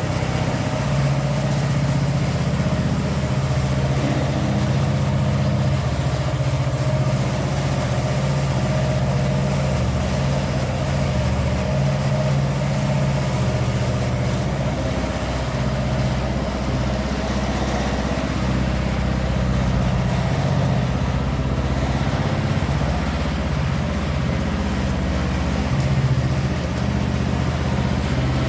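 A construction machine's engine running steadily at one constant speed, with no change in pitch or load.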